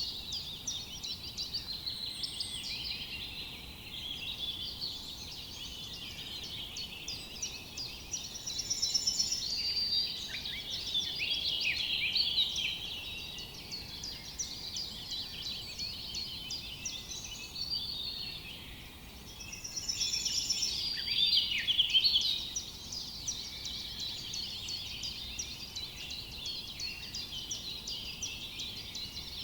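Forest bird chorus: many birds chirping and whistling at once in a dense, continuous tangle, swelling louder twice. A high rippling trill recurs about every ten seconds among them.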